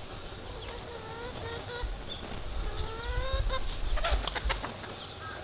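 Chickens calling: a few drawn-out calls that rise in pitch, followed by a few sharp clicks about four seconds in.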